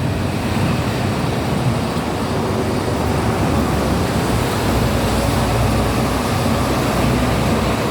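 Steady rumble of street traffic, an even wash of noise with no single event standing out.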